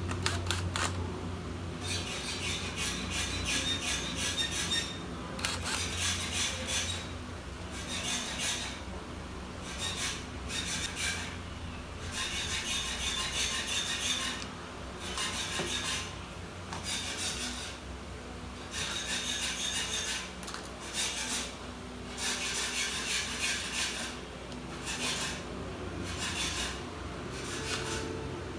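Repeated rasping, scraping strokes of a hand tool or hand working against the laptop's plastic or metal parts during keyboard replacement. There are over a dozen strokes, each about a second long, with short pauses between them.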